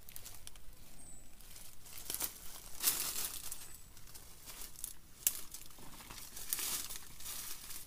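Irregular crinkling and rustling in several separate spells, loudest about three seconds in and again near the end.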